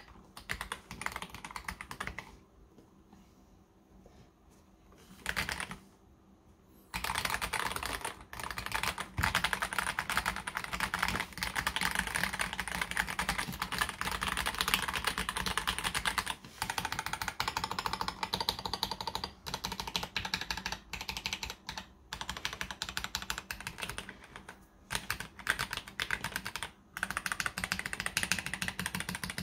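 Typing on a KBD67 Lite R3 mechanical keyboard with stock, unlubricated Akko CS Jelly Blue tactile switches. A few scattered keystrokes and a short pause come first, then fast continuous typing from about seven seconds in.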